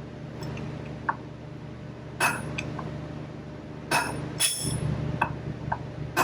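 Hammer blows on steel, knocking a bearing race out of a square baler's wheel hub: sharp, ringing metallic strikes at uneven intervals, about eight in all, the loudest about two and four seconds in.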